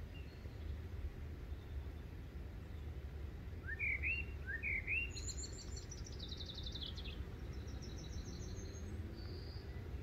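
Birds singing: two loud upswept notes about four seconds in, followed by quick high trills that run down in pitch, all over a steady low background rumble.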